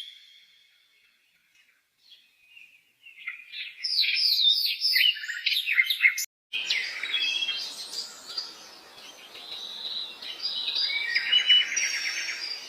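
Small songbirds singing in quick whistled notes that slide up and down, with a fast trill near the end. A little after six seconds the sound cuts out briefly and resumes with a light hiss under the song.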